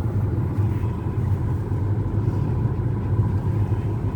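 Steady low rumble of a car driving along a road, heard from inside the cabin, with a faint steady hum above it.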